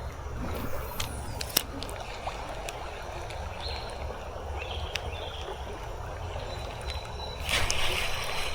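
Creek water flowing and trickling around a canoe, with a few light clicks and knocks, and a brief louder rush of noise near the end.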